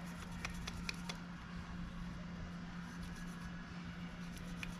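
A few light clicks and taps as the mower seat's spring-suspension slide is worked back and forth on its freshly lubed plastic guides, over a steady low hum.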